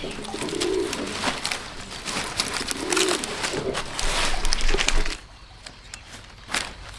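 A dove cooing twice, each coo short and low, about two seconds apart. Under it runs crackling, rustling handling noise that cuts off suddenly about five seconds in.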